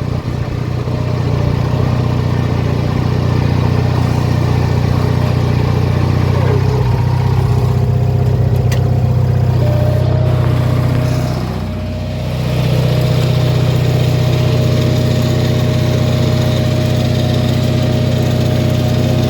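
Briggs & Stratton 18 hp twin-cylinder engine of a modified Craftsman riding mower running steadily. Its level dips briefly about twelve seconds in, then it runs on steadily.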